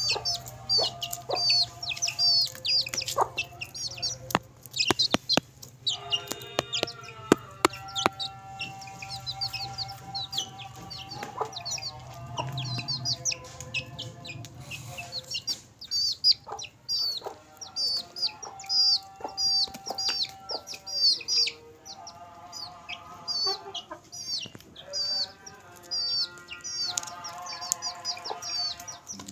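A flock of chickens: small chicks peeping continuously in rapid, high-pitched peeps, with clucking calls from the adult birds coming and going, and many sharp clicks of beaks pecking at crisp papar.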